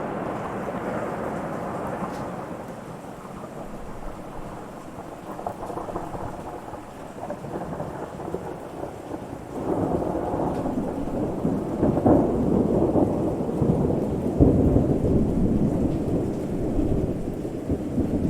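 Thunder rolling and rumbling over steady rain: a rumble dies away in the first few seconds, then a louder, longer roll of thunder builds about halfway through and rumbles on to the end.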